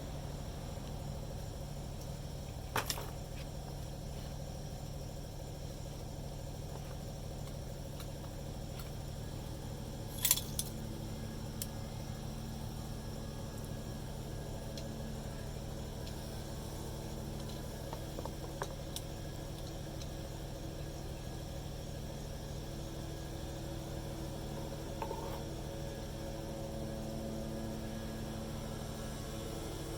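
Light metallic clinks from metal parts being handled, with two sharper ones about 3 and 10 seconds in, over a steady low hum.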